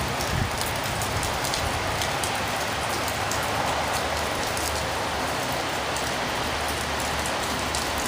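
Heavy rain pouring steadily in a strong, gusty windstorm, with scattered individual drops ticking sharply over the wash of rain.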